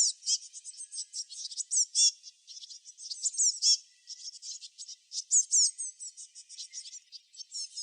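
Small songbirds chirping and twittering in a dense, high-pitched chorus of quick calls. Many of the notes sweep downward, and louder bunches of chirps come every second or so.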